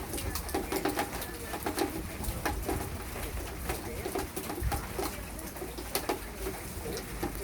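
A pigeon cooing repeatedly in low phrases, over rain dripping and pattering with many sharp drops.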